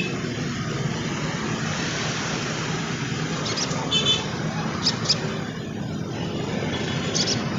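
Short, high, sharp chirps from a sogon trotol, a few about halfway through and one more near the end, over a steady low rumbling background noise.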